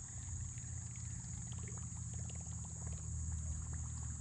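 Steady high-pitched insect chorus drone, over a low steady rumble and a few faint scattered ticks.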